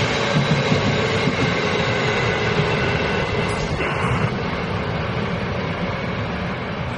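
Taiwan Railways passenger train running past on the platform track, a steady rumble of wheels on rails that starts to fade after the last car clears, about four seconds in.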